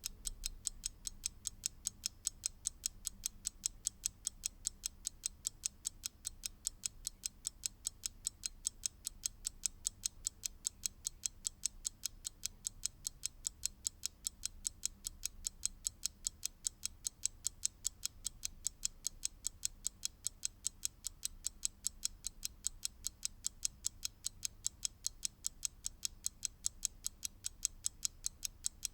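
Mechanical clock ticking at a fast, perfectly even rate, several crisp ticks a second, with a faint low hum underneath.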